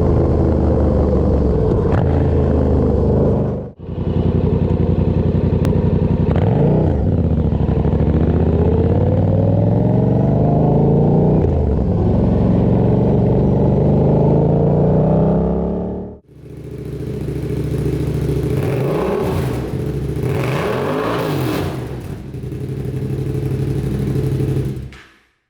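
Yamaha 689 cc parallel-twin motorcycle engine through a Brogue "SpitFire" custom exhaust, in three short clips that cut sharply from one to the next. The first holds a steady engine note; in the second and third the revs rise and fall several times as the bike accelerates or passes by.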